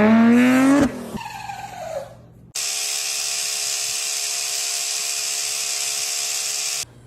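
A loud pitched sound rising steadily in pitch, then a fainter falling tone. After a short pause a small motor whirs steadily for about four seconds and cuts off suddenly.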